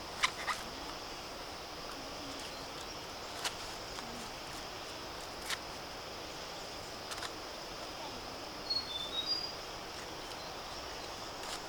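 Rural outdoor ambience: a steady high-pitched insect drone, a few sharp isolated snaps or clicks, and a short run of bird chirps about nine seconds in.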